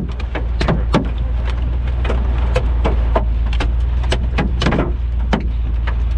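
Hailstones hitting a car in irregular sharp knocks, several a second, over a steady low rumble.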